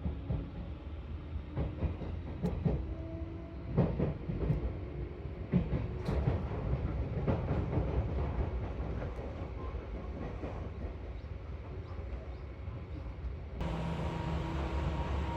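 Seibu 4000 series electric train running after pulling out of a station: a low rumble with a run of sharp clicks as the wheels cross rail joints and points, thinning out after about seven seconds. A few tones step up in pitch early on. The sound changes abruptly near the end.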